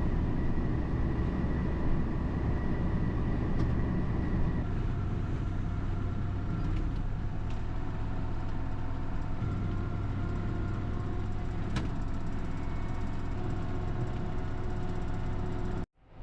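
A motor vehicle's engine running steadily while driving, a low even rumble with a faint whine above it; the sound cuts off suddenly near the end.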